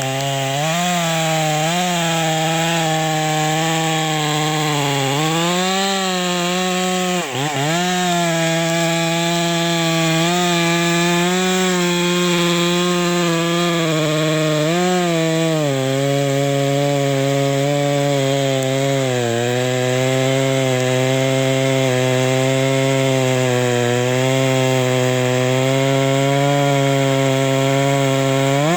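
Modified Stihl MS 460 two-stroke chainsaw with a 28-inch bar running at full throttle while cutting wood. Its pitch sags and recovers as the chain loads up in the cut, with one brief deep dip about seven seconds in.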